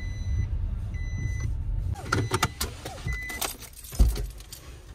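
Low rumble of a vehicle, then a run of clicks and rattles and one sharp thump about four seconds in.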